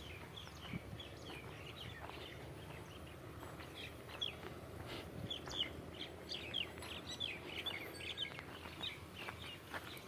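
Small birds chirping: many short, quick, high calls, a few at first and coming thicker from about halfway through.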